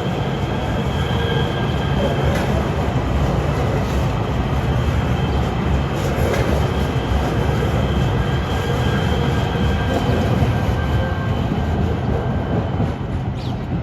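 Metro Rail train running on the track: a steady heavy rumble with thin, high steady tones held over it.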